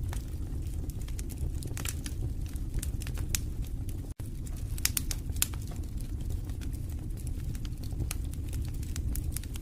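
Wood fire burning in a fireplace: a steady low rumble of flames with irregular crackles and sharp pops from the burning logs, and a split-second dropout about four seconds in.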